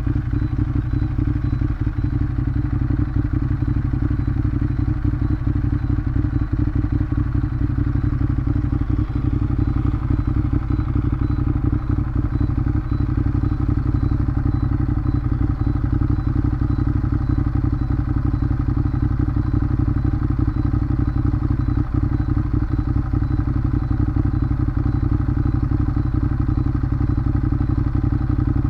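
Ducati Monster 821's L-twin engine running through its stock exhaust at a steady, even engine speed while riding, with no revving or gear changes.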